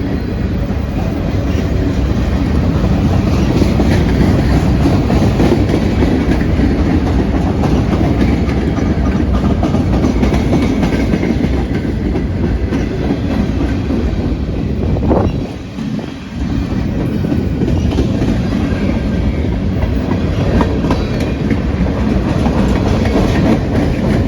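Freight train rolling past at close range: a steady rumble of cars with the clickety-clack of wheels over rail joints. The sound dips briefly about fifteen seconds in.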